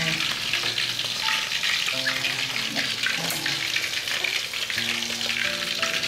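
Food frying in a hot pan: a steady sizzle full of fine crackles.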